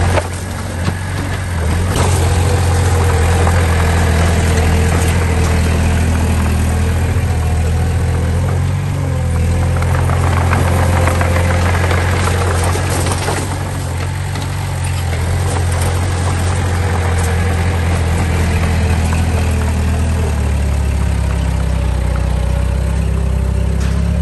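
Diesel engine of a heavy construction machine running steadily, a low, even drone with a slight dip in loudness about a second in.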